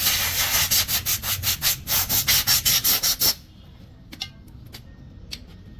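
Rapid back-and-forth rubbing strokes, about five a second, stopping suddenly about three seconds in; a few light clicks follow.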